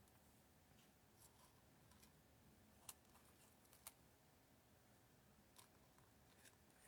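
Near silence: room tone with a few faint clicks from paper pieces being handled, the clearest two about three and four seconds in.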